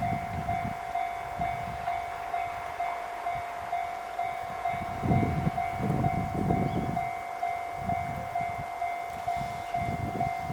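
Railway level-crossing warning bell ringing at an even, repeating beat while the Train Suite Shiki-shima rumbles past, the rumble loudest about halfway through.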